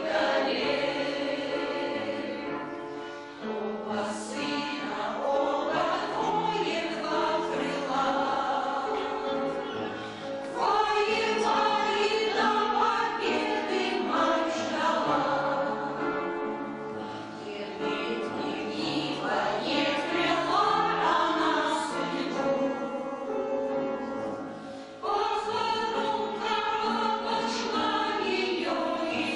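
A choir of older amateur singers singing a song in chorus, in phrases with short breaths between them.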